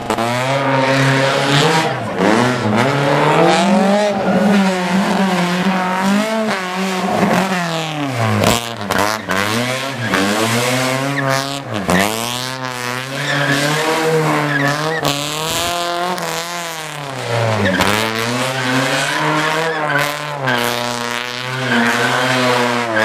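Car engine revving hard and repeatedly, pitch climbing under acceleration then dropping sharply on lifts and gear changes, with tyre squeal and skidding through tight cone turns.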